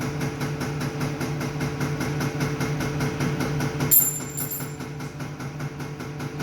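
A machine running steadily with a fast, even ticking of about six or seven beats a second over a low hum. About four seconds in there is a short, sharp click with a brief high-pitched tone.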